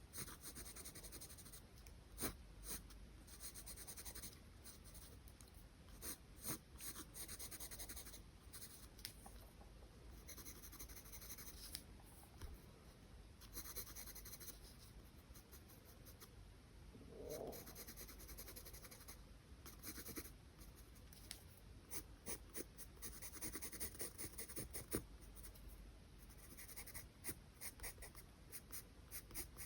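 Charcoal pencil scratching on paper in runs of short, quick strokes, with scattered sharp ticks. A brief squeak comes about halfway through.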